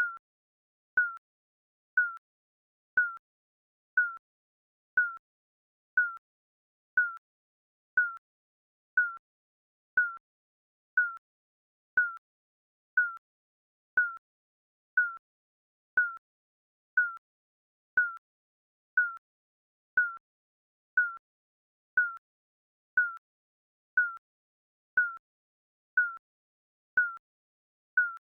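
Digital countdown timer beeping: one short, high electronic beep every second, evenly spaced, each cut off quickly.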